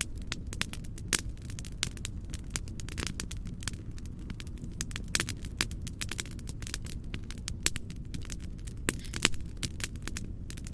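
Wood fire crackling in a fireplace, with frequent irregular sharp pops and snaps over a steady low rumble of soft white noise.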